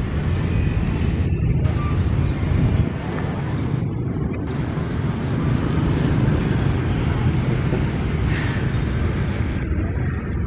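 Steady low rumbling outdoor ambience with no distinct events.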